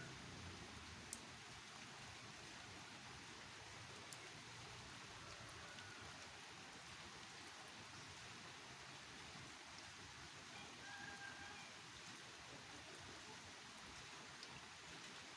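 Steady, faint rain falling, with an occasional sharper drip or tap.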